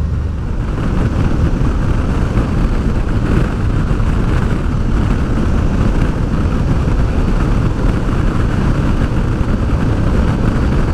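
Honda Deauville's V-twin engine running at road speed, largely buried under steady wind rushing over the rider's microphone.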